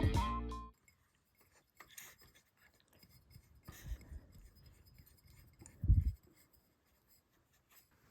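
Guitar music that stops less than a second in, followed by faint scattered rustling and clicking, with one short, dull low thump about six seconds in.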